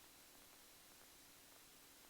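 Near silence: a faint, steady hiss with a faint steady hum.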